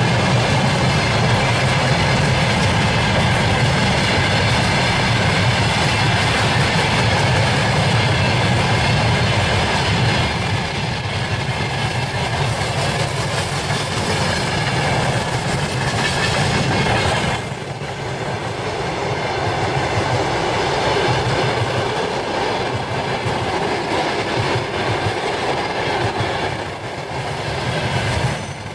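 Long freight train of loaded flatcars and boxcars rolling past close by, a steady low rumble of wheels on rails. The sound drops abruptly in level about two-thirds of the way through.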